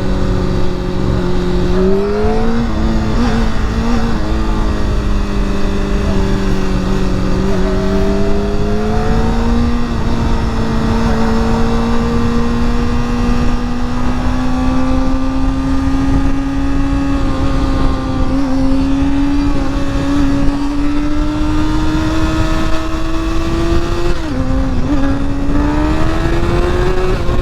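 Honda CBR sport bike engine running at cruising speed, its pitch creeping slowly up as it accelerates, with a brief drop in revs near the end before climbing again; steady wind rush on the rider's microphone.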